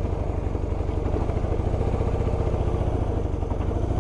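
BMW R1100RT's boxer twin engine running at low speed with a steady, low pulsing beat.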